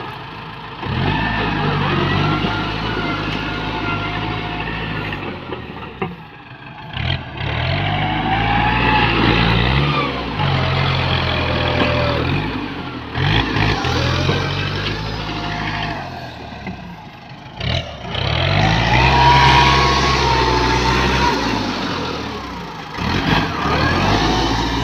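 ZT 155 tractor engine running hard in repeated surges, revving up and easing off roughly every five to six seconds.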